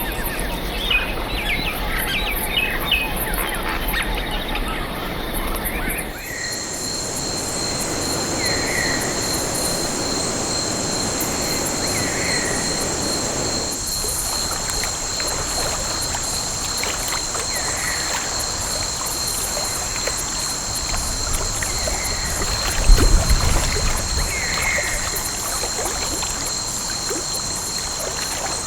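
Forest ambience: birds chirping, then after an abrupt change about six seconds in, a steady high insect drone with a bird giving a short call every few seconds. There is a brief low rumble near the end.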